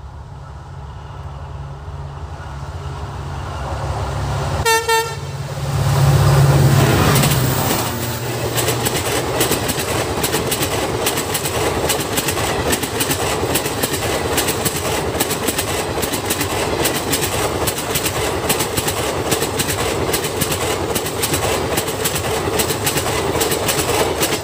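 A diesel-hauled express train, headed by a WDP4D locomotive, approaches at speed with a rising low engine rumble and sounds a short horn blast about five seconds in. The locomotive goes by loudly, then a long rake of coaches rushes past with rapid, continuous wheel clatter over the rail joints.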